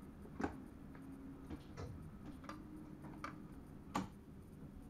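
Inside a moving train's driver's cab: a low running rumble with about six sharp clicks and ticks at uneven intervals.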